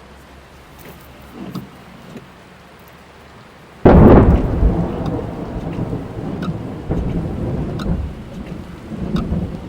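Thunderstorm heard from inside a car: light rain patters on the roof with scattered drops, then a loud thunderclap breaks about four seconds in and rolls on as a low rumble that slowly fades.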